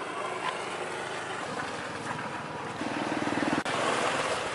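An engine running with a rapid, even putter, getting louder about three seconds in.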